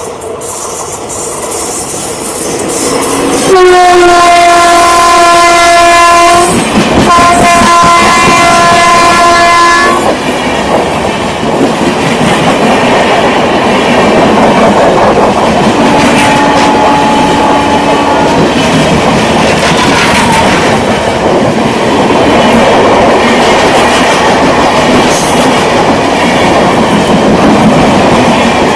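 Indian Railways passenger train sounding its horn in two long blasts, then running past with a steady rumble and the clatter of wheels over rail joints. A short, fainter horn note sounds around the middle.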